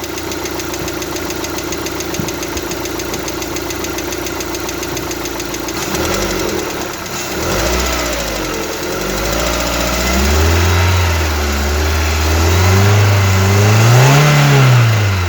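Lada petrol engine idling with its hydraulic lash adjusters clicking rapidly. From about six seconds in it is blipped up several times, pitch rising and falling, the highest rev near the end. The clicking lifters come with oil pressure that drops low as the engine warms.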